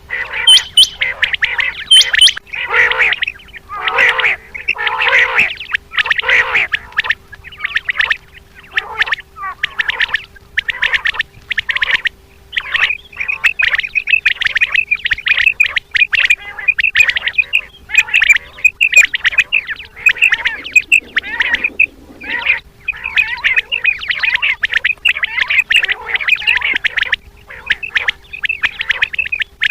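Common quail calling in quick, repeated short notes with almost no pause, the sort of recording used as a quail hunting lure. A faint steady hum runs underneath.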